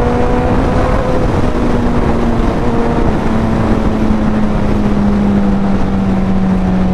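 Suzuki Hayabusa's inline-four engine with a Racefit aftermarket exhaust, cruising at steady revs that ease slightly lower over the last few seconds, under heavy wind rush on the microphone.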